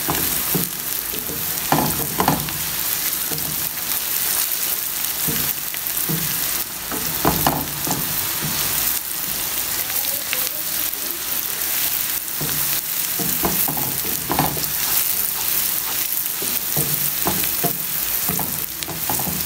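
Sliced onions and shredded cabbage, carrot and beetroot sizzling steadily in hot oil in a frying pan, stirred with a wooden spatula that scrapes and knocks against the pan at irregular moments.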